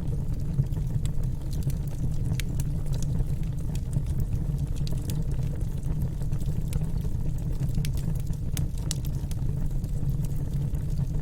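Wood fire in a fireplace burning with a steady low rumble and occasional sharp crackles and pops.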